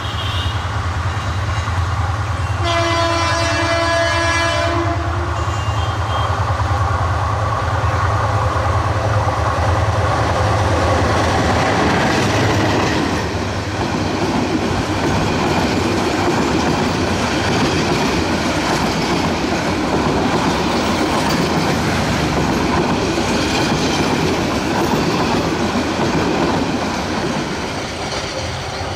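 Diesel-hauled passenger train: the locomotive's engine running as it approaches, with one horn blast of about two seconds a few seconds in. Then the coaches run close past, their wheels clattering over the rail joints, and the sound eases off near the end as the train moves away.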